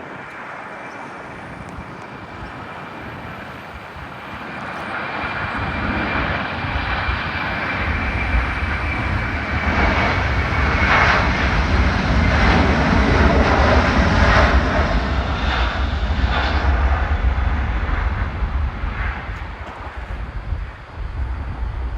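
Jet airliner taking off, its engines at takeoff power: a low rumble builds from about four seconds in, is loudest through the middle, then fades as the aircraft passes. A high whine drifts slowly down in pitch over the first half.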